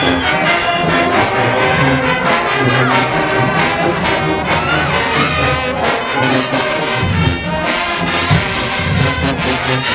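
Marching band playing loud brass music, trombones and trumpets over a driving drum beat.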